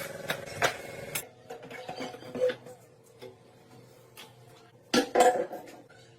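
Scattered clinks and knocks of metal parts and tools being handled, with a louder cluster of knocks about five seconds in. A steady hum underneath stops about a second in.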